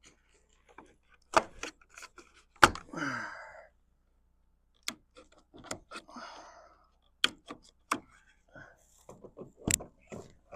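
Irregular knocks and clatter of wooden boards and greenhouse panels being handled, with about six sharp hits spread through it and two brief scraping rubs, the first with a falling creak.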